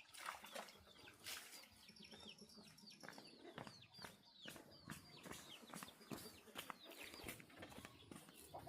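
Chickens clucking faintly, with many short high chirps that fall in pitch and scattered light taps.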